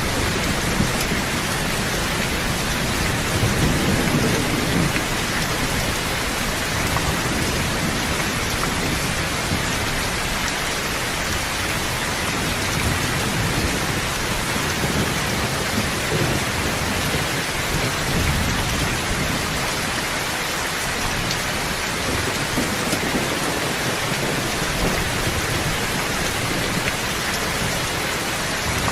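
Steady, dense rainfall with low rumbles of thunder swelling up about three seconds in and again past the middle.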